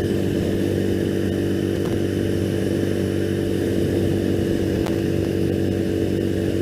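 2001 Triumph Bonneville's air-cooled parallel-twin engine running at a steady cruising speed while the bike is ridden, its exhaust note holding an even pitch.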